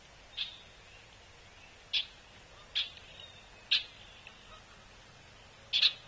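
Short, sharp bird call notes at the feeders, five of them at irregular intervals, the last near the end the loudest, over a faint steady outdoor background.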